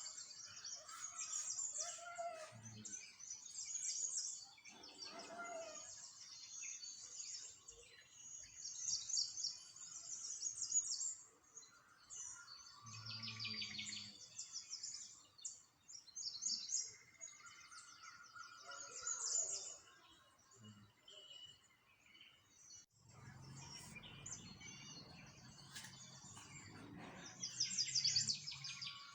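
Small songbirds chirping and singing in fast, high, overlapping trills, with a low rumble in the background near the end.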